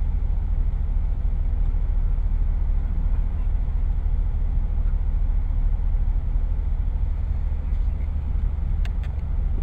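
Steady low rumble of a car idling, heard from inside the cabin, with a couple of faint clicks near the end.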